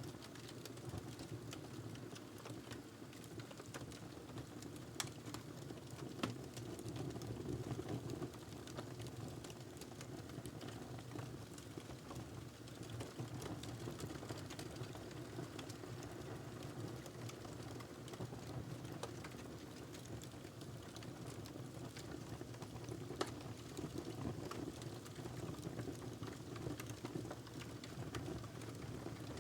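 Burning log in a fireplace crackling: a steady low rumble of the flames with scattered small crackles and a few sharper pops, the loudest about five, six and twenty-three seconds in.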